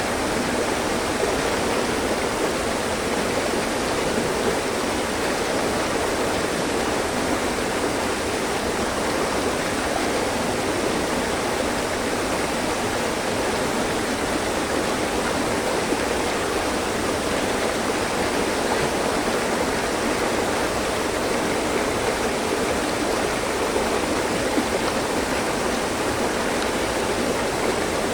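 Mountain stream flowing over rocks: a steady, even rushing of water with no breaks.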